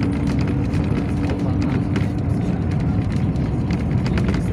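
Inside a Yutong ZK6118HGA city bus under way: a steady low rumble of engine and road noise, with many small rattles from the body and fittings. A steady hum runs through it and fades about halfway through.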